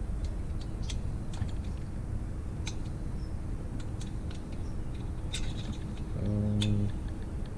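Hand tools clicking and tapping against metal engine parts while a stubborn bolt is worked loose on a motorized-bike engine, in scattered irregular clicks. A brief low hum about six seconds in.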